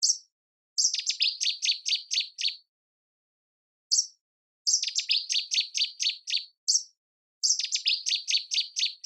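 A songbird singing the same phrase over and over: a short high note followed by a quick run of about eight falling notes, heard three times, with a lone high note between phrases.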